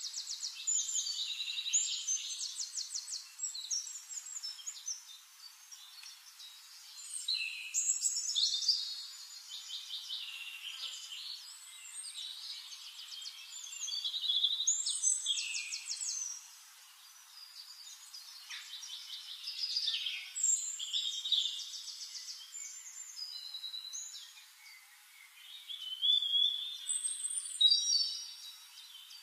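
Birds singing: a mix of chirps, short gliding whistles and rapid trills, swelling and fading in bursts every few seconds.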